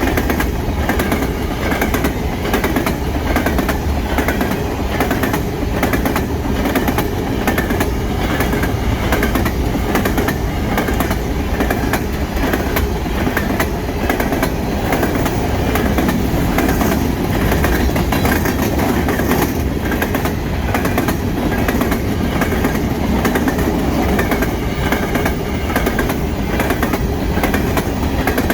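A freight train of 3-bay covered hopper cars rolling steadily past, wheels clicking rhythmically over the rail joints with a continuous rumble.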